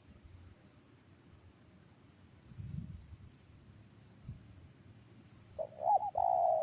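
Spotted dove cooing near the end: a short phrase of bending, pitched coo notes, the loudest sound here. Insects chirp faintly at a high pitch throughout, and there are two soft low thumps in the middle.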